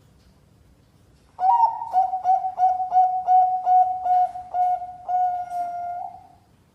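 Zebra dove (perkutut) of the Bangkok song type singing: after a second and a half of quiet, a quick opening phrase, then a run of short coos about three a second on one steady pitch, ending in one longer held note.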